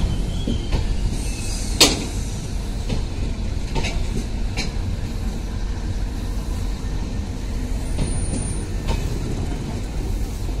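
Indian Railways passenger coaches rolling slowly past along the platform: a steady low rumble of wheels on rail with scattered clanks and knocks, the loudest about two seconds in, and a brief thin high squeal near eight seconds.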